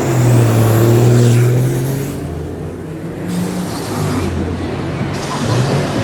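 Diesel engine of a racing super truck running hard with a steady drone that eases off about two seconds in and then builds again.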